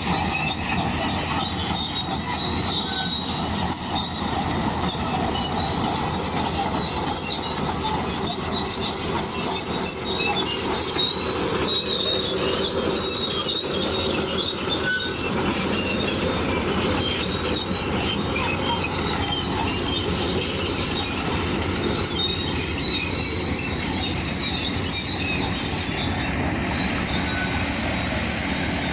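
Crawler bulldozer moving on its steel tracks: a steady mechanical din with continual high-pitched squealing and clanking from the track links, over the engine's running.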